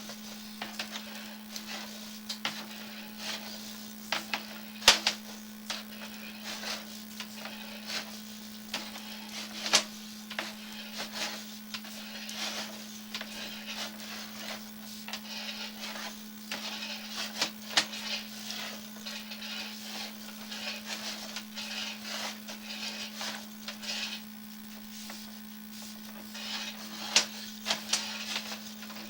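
Sewer inspection camera push rod being fed by hand down the pipe: irregular clicking, knocking and rubbing, with a few sharper knocks, over a steady electrical hum.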